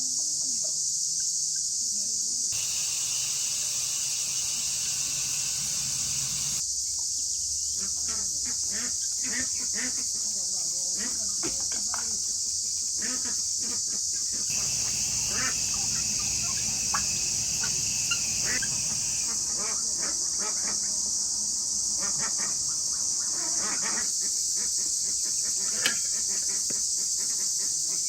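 Steady high-pitched insect chorus, with scattered light clicks and taps in between.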